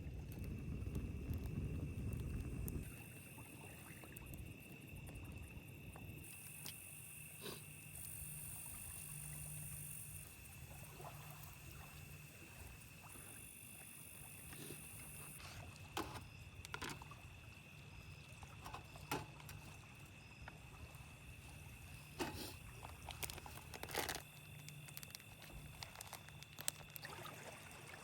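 Insects trilling steadily over a low steady hum, with a low rumble in the first three seconds and scattered sharp clicks and knocks through the rest.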